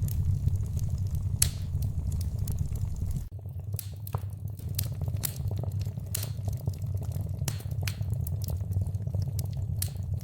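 Wood fire in a fireplace crackling, with scattered sharp pops and snaps over a steady low rumble that dips briefly a little over three seconds in.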